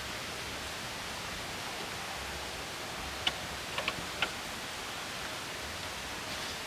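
Steady, even hiss of outdoor ambience, with four short sharp clicks a little past halfway.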